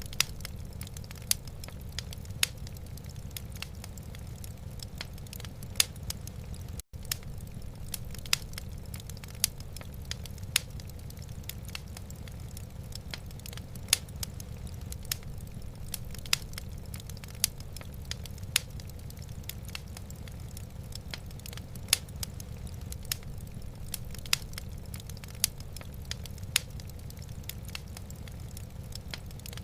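Wood fire crackling in a fireplace: irregular sharp pops, a few of them louder, over a steady low rumble. The sound cuts out for an instant about seven seconds in.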